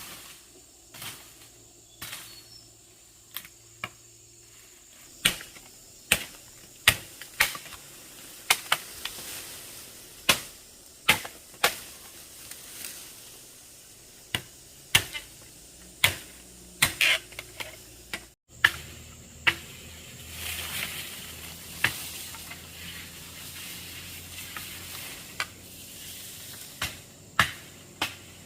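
A series of sharp strikes or knocks at an uneven pace, roughly one a second, some much louder than others, with a short break about two-thirds through.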